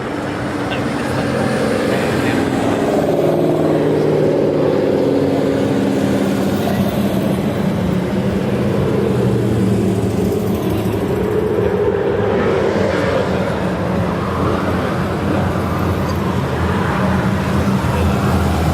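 Motor vehicle engine running steadily, its pitch drifting slowly up and down.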